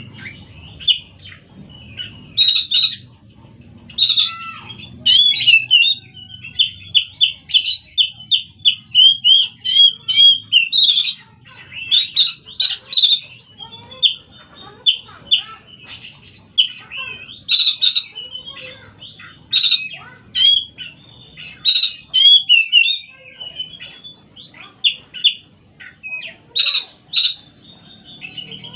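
Oriental magpie-robin singing a long, varied song of quick whistles and chirps, with short pauses between phrases and a stretch of fast repeated notes about a third of the way in.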